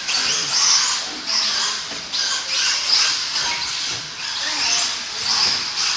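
Radio-controlled stadium trucks racing, their motors giving a high-pitched whine that rises and falls over and over as they accelerate and brake around the track.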